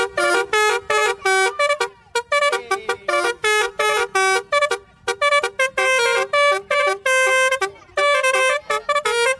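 Basuri telolet bus horn playing a quick melody of short, bright horn notes, three or four notes a second, with brief pauses about two and five seconds in.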